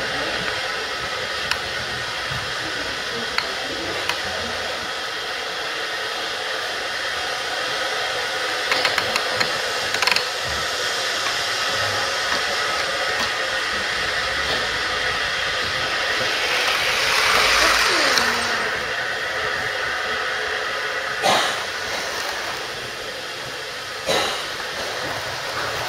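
Steady hiss and hum of model trains running on an N-gauge layout in a hall. A few sharp clicks and knocks come through, with a louder swell and a falling whine about two-thirds of the way in.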